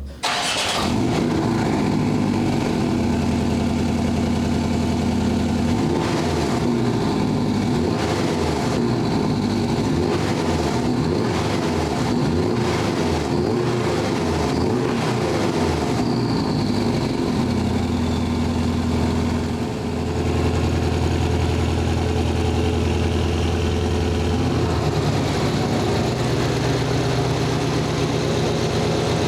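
A 2019 Porsche 718 Cayman S's turbocharged flat-four fires on a cold start and settles into a steady, fast cold idle. The engine note dips briefly about two-thirds of the way through.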